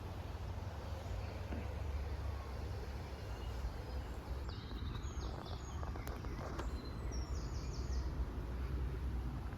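Outdoor woodland ambience: a steady low rumble under a songbird singing two short runs of rapid, high repeated notes, about halfway through and again a little later.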